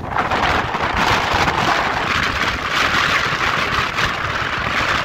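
Taipei Metro train passing close by: a loud, steady rush of wheel and rail noise.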